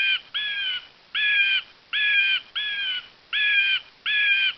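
Eagle calling: a series of harsh, evenly repeated calls, each about half a second long, coming roughly every three-quarters of a second.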